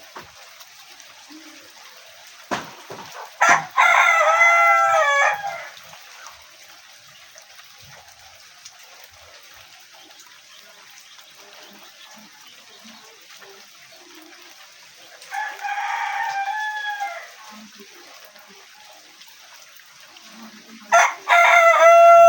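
Rooster crowing three times, each crow about two seconds long; the second is fainter, and the third starts near the end.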